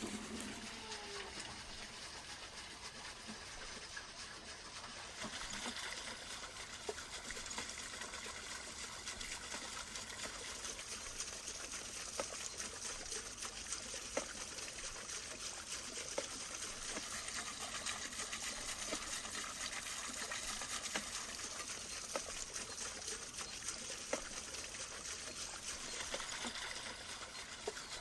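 Steady rush of running water, with scattered faint crackles.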